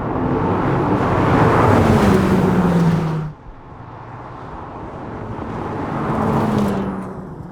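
Porsche 911 R's naturally aspirated 4.0-litre flat-six engine, heard in two loud swells. The first builds to a peak with its note falling, then cuts off suddenly about three seconds in. The second builds again and fades near the end, like a car passing by.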